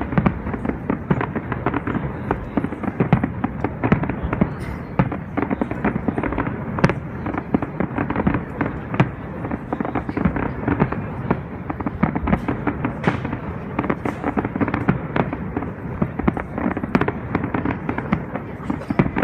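Fireworks display: a dense, continuous barrage of bangs and crackles, several a second, with no let-up.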